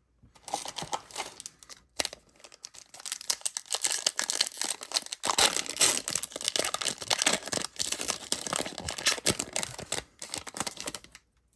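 The wrapper of a trading-card pack being torn open and crinkled by hand: a continuous crackling rustle with a brief pause about five seconds in.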